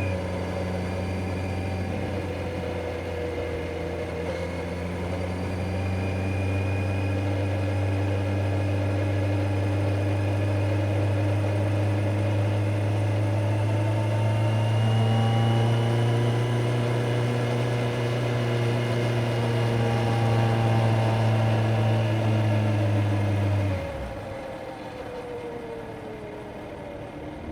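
Kawasaki Z900's inline-four engine holding a steady note, the pitch rising slightly about halfway through. Near the end the throttle closes and the note drops and falls away.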